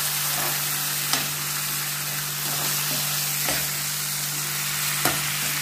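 Sliced tomatoes and onions sizzling in hot oil in a non-stick frying pan, the tomatoes just added to the onions, while a slotted metal spoon stirs them and knocks against the pan a few times.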